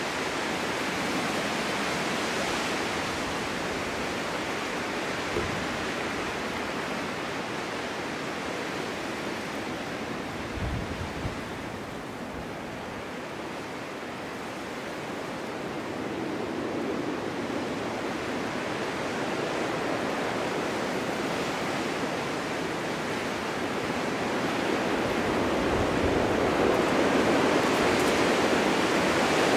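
Snowstorm wind blowing steadily in a continuous rushing hiss that swells and eases in gusts, dropping lower about halfway through and growing louder near the end. A couple of brief low thumps come about ten seconds in.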